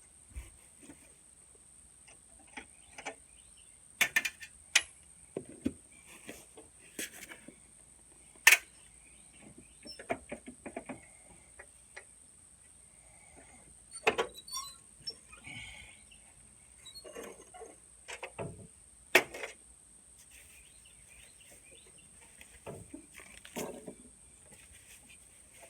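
Scattered clicks, knocks and clatter of tools and metal parts being handled, with several sharper single strikes standing out.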